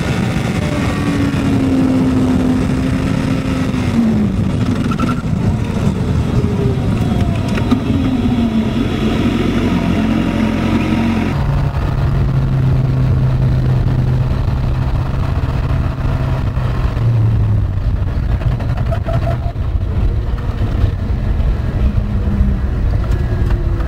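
Motorcycle engine running on the move, its note rising and falling with the throttle under heavy wind rush. About eleven seconds in, the sound changes abruptly: the rushing drops away and a lower, steadier engine note carries on.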